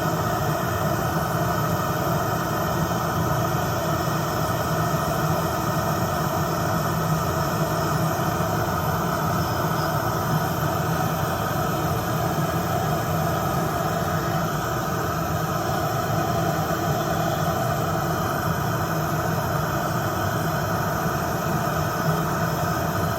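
Electric nail drill (e-file) running steadily with a continuous whine.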